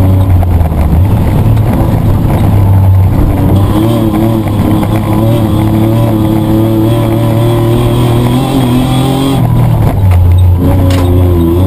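Loud petrol engine of a Mitsubishi Triton offroad race truck, heard from inside the cabin, pulling hard: its note climbs steadily through a gear, breaks off about nine and a half seconds in, then picks up and climbs again.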